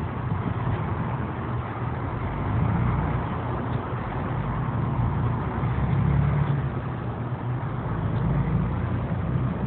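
Car engine running with a steady low hum that swells and eases slightly every few seconds.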